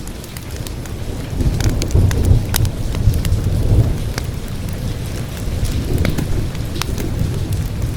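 Steady rain with low thunder rumbling, swelling about one and a half seconds in, and scattered sharp crackles of a wood fire.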